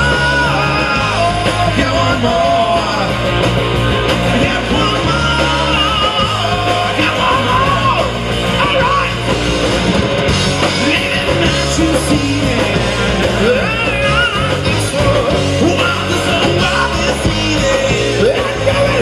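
Live rock band playing loudly, with a yelled vocal over bass notes that change every second or so.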